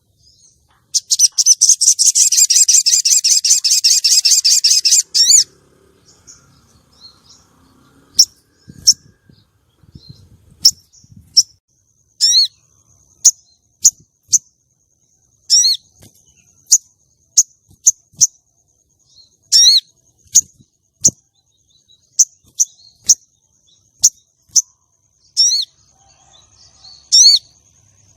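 Female brown-throated sunbird (sogon) calling: a loud, rapid chattering trill lasting about four seconds, then a long series of single sharp high chirps about a second apart. This is the female's call that stirs male sogon to sing.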